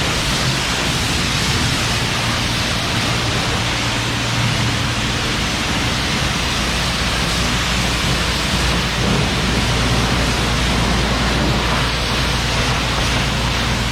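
Self-serve car wash pressure wand spraying soapy water onto a car, a loud steady hiss, with a low steady hum underneath.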